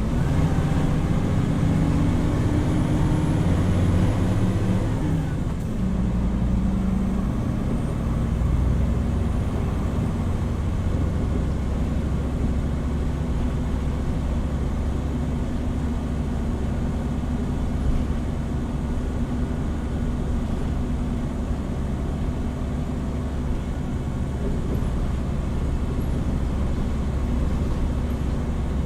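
Hino Rainbow HR city bus diesel engine heard from inside the bus: the engine note rises as the bus accelerates, drops about five seconds in at a gear change, then settles into a steady drone with road noise at cruising speed.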